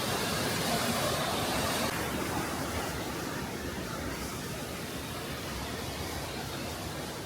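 Steady rushing noise of Düden Waterfall's falling water, easing slightly about two seconds in.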